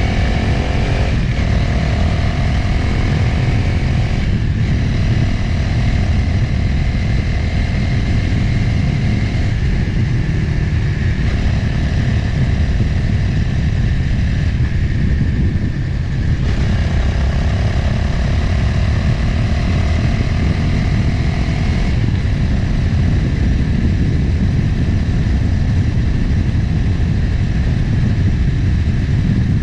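Motorcycle engine running under way, with heavy wind rumble on the microphone. The engine note briefly drops out several times, then resumes.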